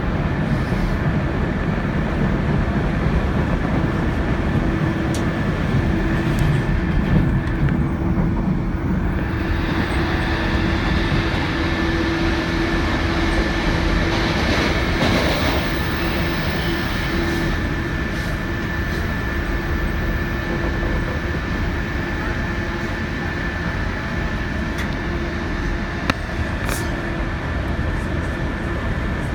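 Odoriko limited express train running on the line, heard from inside a car: a steady rumble of wheels on rail with a steady whine, and a few single clicks.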